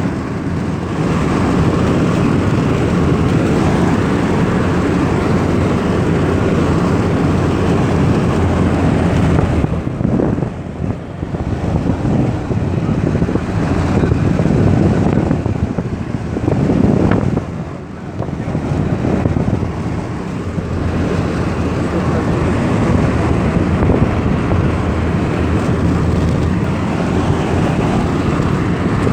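Lada Kalina 2 wagon driving on the highway: steady road and engine noise, with wind buffeting the microphone. The noise dips briefly twice, about ten and eighteen seconds in.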